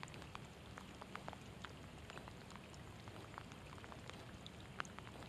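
Light rain falling, faint: scattered, irregular drops tick and patter at uneven intervals.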